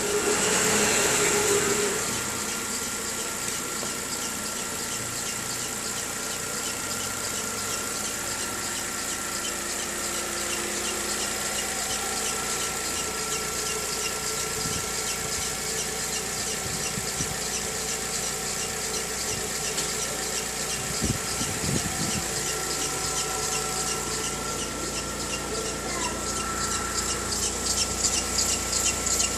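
Volkswagen Gol G6 engine running with a steady squeal and a fast, even chirping over the idle, a little louder for the first couple of seconds. The noise is worst on cold morning starts; the dealer first blamed a hard alternator belt, but the fault was a defective timing belt.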